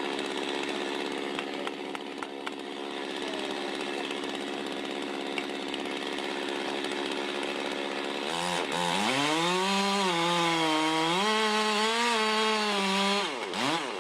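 Chainsaw running steadily, then opened up about eight seconds in as it cuts into the tree. Its pitch wavers up and down under load before dropping away near the end.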